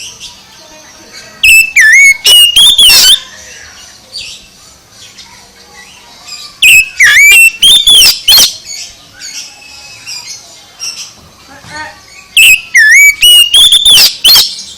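Oriental magpie-robin (kacer) singing loudly in three bursts about five seconds apart, each a run of whistled notes that swoop up and down, with softer twittering between the bursts.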